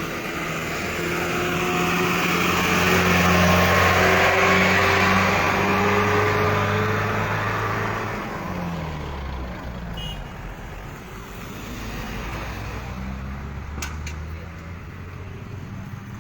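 Motor vehicle engine running steadily, with a wash of road and engine noise that swells to its loudest about three to six seconds in and then fades after about eight seconds. A couple of sharp clicks come near the end.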